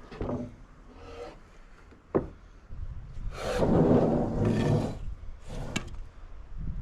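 Freshly sawn walnut slabs being stacked and stickered. A sharp wooden knock comes about two seconds in, then a long scraping slide of wood on wood, then another sharp knock.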